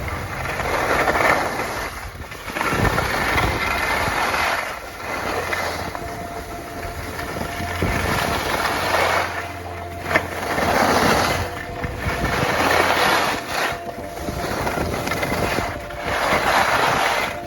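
Skis scraping and hissing over snow, swelling and fading with each turn about every two seconds, over a low rumble of wind on the microphone.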